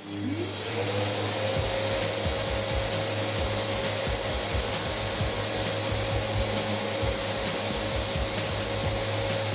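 Electric wall sander spinning up over about the first second and then running steadily, with irregular rubbing as its pad works over the filled wall.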